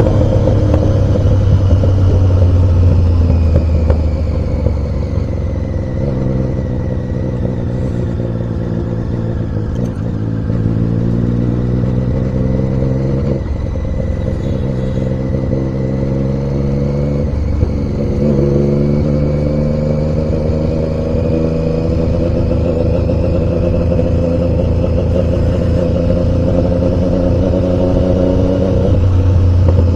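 Triumph Daytona 675's inline three-cylinder engine running under way. Its pitch holds fairly steady, then steps down twice, about a third and halfway through, as gears change.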